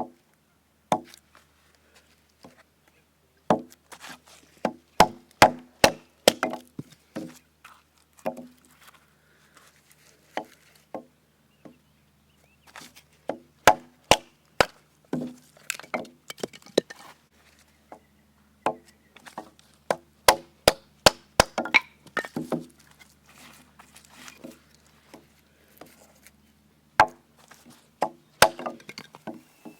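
Firewood being chopped: a long series of sharp, irregular wooden strikes, some in quick runs of several a second, as wood is split for a campfire.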